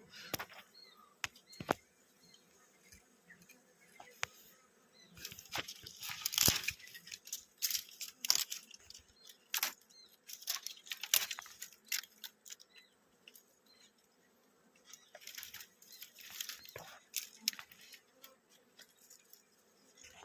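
Irregular rustling and crackling with scattered sharp clicks, coming in bunches with quieter gaps between.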